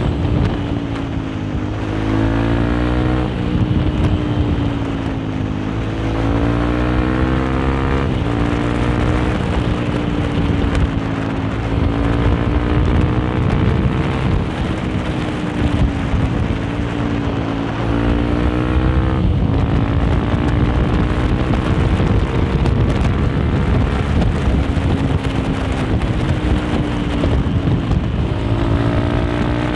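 Honda CRF150L's single-cylinder four-stroke engine running under way through an aftermarket Nofifumi Torc exhaust. Its pitch climbs and falls with the throttle and drops sharply a few times at gear changes, with wind on the microphone.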